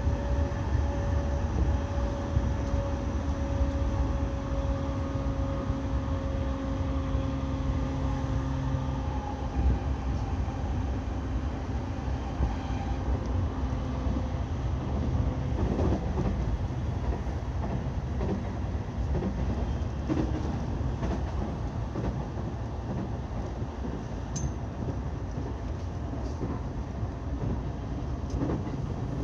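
E217-series electric train running. Its motor whine falls slowly in pitch over the first third, over a steady rumble. From about halfway on, the wheels click over rail joints.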